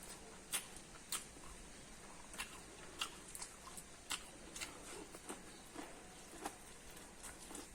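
Someone biting and chewing corn close to the microphone: irregular sharp, crisp clicks every half second to a second.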